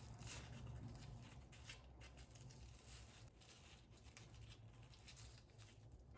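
Faint, irregular rustling and small crinkling sounds of handling, over a low steady hum.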